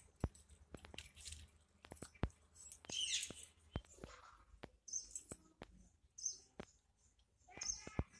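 Small birds chirping on and off, loudest about three seconds in, with scattered sharp clicks.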